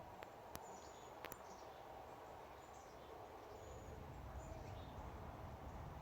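Quiet outdoor ambience: short, faint, high bird chirps now and then over a steady low rumble. Two sharp clicks come in the first second and a half.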